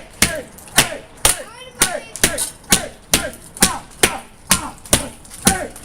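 Nunchucks hammering a laminated glass window in a rapid run of sharp whacks, about two a second. The glass is cracking but not giving way.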